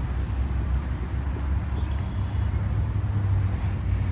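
Steady low rumble of a vehicle engine running at idle.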